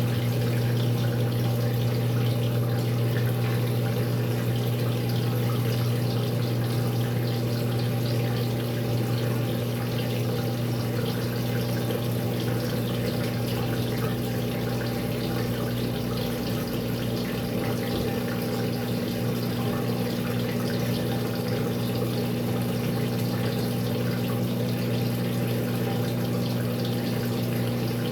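Maytag MVWX655DW1 washing machine running a tub-clean cycle: a steady, unchanging hum with water rushing through it.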